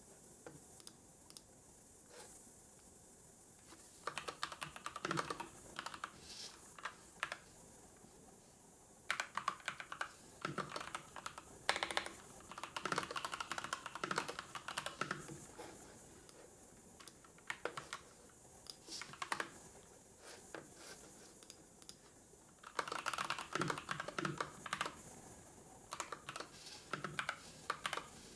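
Typing on a computer keyboard: rapid runs of key clicks lasting a few seconds each, broken by pauses with only a few single clicks.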